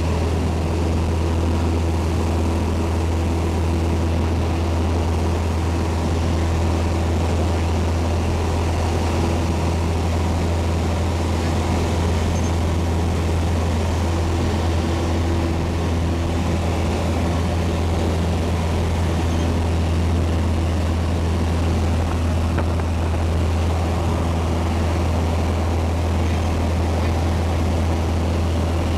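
Piper Cherokee's piston engine and propeller running at a steady, unchanging drone, with a strong low hum.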